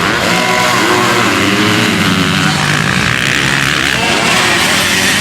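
Several motocross bikes racing, their engines revving up and down over one another, loud throughout.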